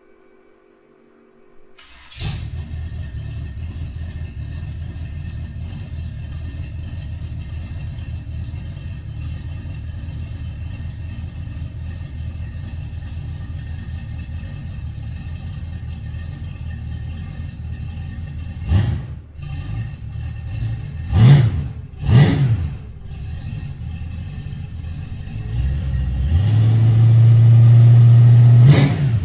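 V8 engine of a Chevy S10, breathing through cheap Flowmaster-style TOTALFLOW mufflers, fires up about two seconds in and settles into a steady, loud idle. About two-thirds of the way through there are three quick throttle blips. Near the end the engine is held at higher revs.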